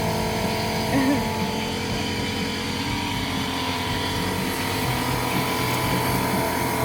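A steady mechanical hum, like a small motor running without a break, with a brief voice about a second in.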